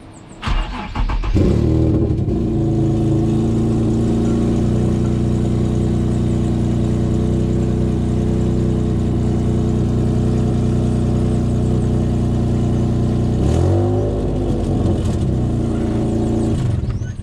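Infiniti G35's V6 cranked and started about a second in, then idling loud and steady with a massive exhaust leak that makes it sound like it's straight pipe almost. A short blip of revs near the end.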